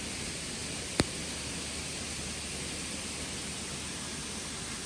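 Steady rushing of a rain-swollen waterfall, with one sharp click about a second in.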